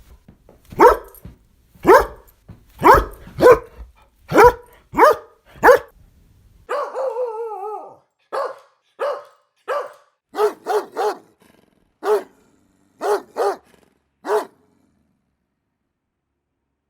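Angry dog barking: a run of loud, sharp barks, then a drawn-out wavering growl about seven seconds in, then more single barks at a steadier spacing. The barking stops about two seconds before the end.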